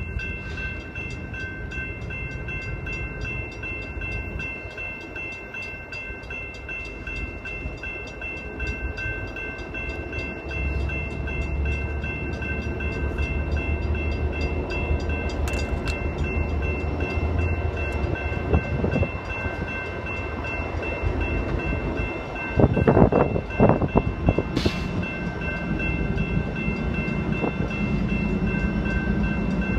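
Train rolling past on the rails: a continuous rumble with steady high ringing tones over it, and a louder stretch of clatter about three-quarters of the way through.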